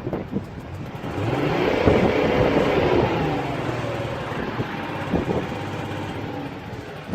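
Audi 3.0 TDI V6 diesel engine revved once: its pitch rises about a second in, holds briefly, then falls back to a rough, uneven idle. It runs with the tapping, chuffing note that the owner traced to leaking injector seals (copper washers and O-rings).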